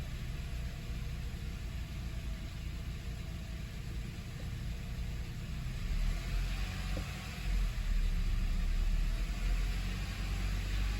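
2024 Honda Civic Sport's 2.0-litre four-cylinder engine running at idle while the car rolls backward off the ramps. The low rumble grows louder, with more hiss, about halfway through.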